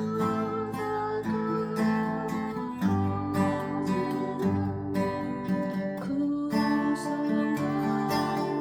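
Acoustic guitar strummed in a slow chord progression, the chords changing every second or two.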